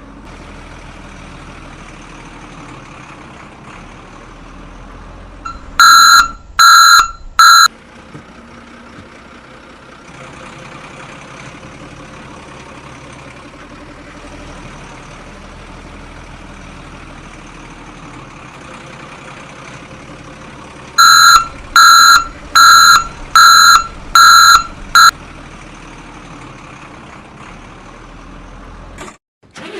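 A motor runs steadily while a horn beeps loudly in short beeps of one pitch: three in a row, then a run of six later on.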